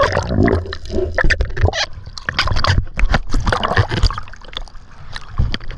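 Water gurgling and splashing around a snorkeler's camera, with many short irregular crackles over a low rumble.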